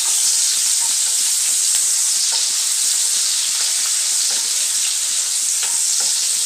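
Chopped onion, green chilli and garlic sizzling in hot oil and butter in a pot, a steady hiss, while a spatula stirs them with faint scattered scrapes and taps.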